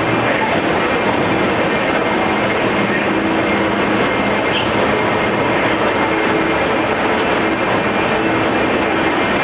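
Amusement-ride train running steadily: a loud, even rumble and hiss with no distinct knocks.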